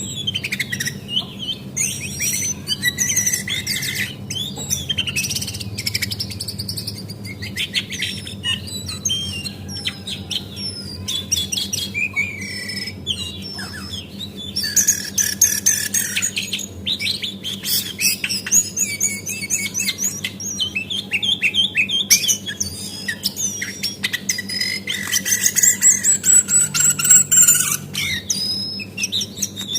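Female cingcoang (jongkangan coklat) singing, a lure recording made to set other birds singing: a dense run of quick high chirps and short trills, with hardly a pause, over a steady low hum.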